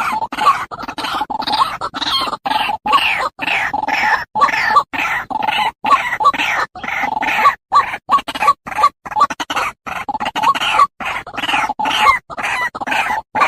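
Repeated short animal calls, one after another, with the sound cutting out completely many times for a split second.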